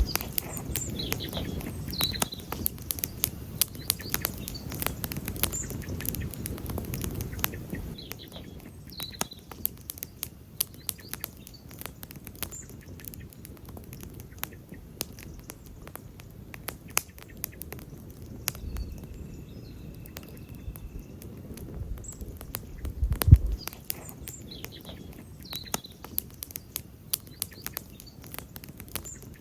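Wood campfire crackling, with frequent irregular sharp pops over a low steady hiss. About three-quarters through, there is one louder pop with a low thump.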